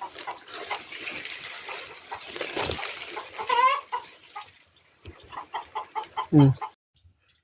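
Wild bird nestlings calling in a rapid series of short harsh notes while being handled out of their nest. A hissing haze lies under the calls for the first four seconds or so, and a louder falling call comes just before it goes quiet near the end.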